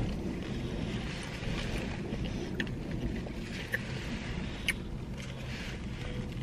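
Chewing on a sub sandwich with a few sharp mouth and paper-wrapper clicks, over a steady low hum inside a car cabin.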